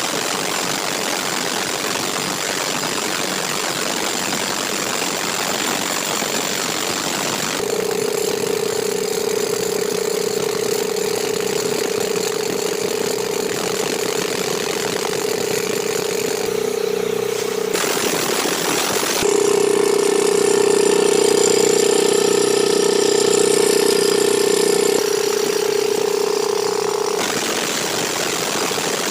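Engine-driven machinery running steadily for rock blasting work, with a steady high whine that comes in about a quarter of the way through, drops out briefly near the middle, returns louder, and stops near the end.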